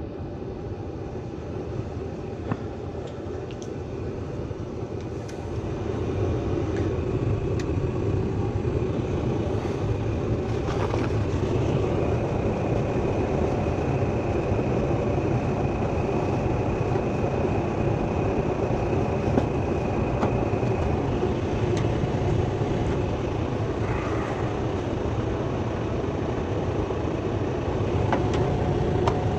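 Furnace and humidifier running under test: a steady rushing noise that gets louder about five seconds in, with a faint high tone through the middle stretch. The humidifier's water valve is set barely open, because its worn orifice lets too much water through.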